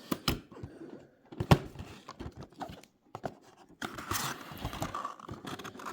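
Boxed model packaging being handled: a few sharp clicks and knocks, then a steadier rustling and scraping from about four seconds in.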